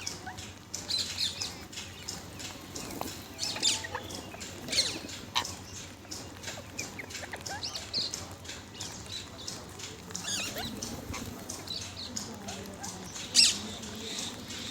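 Parrots giving many short, high chirps and squawks at irregular intervals, with one sharper, louder call near the end.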